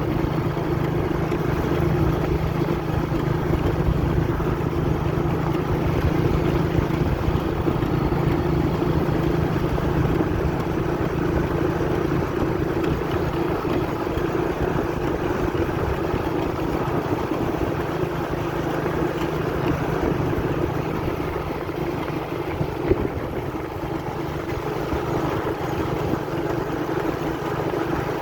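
Small motorcycle engine running at a steady speed while riding over a dirt track, with one brief knock about three-quarters of the way through.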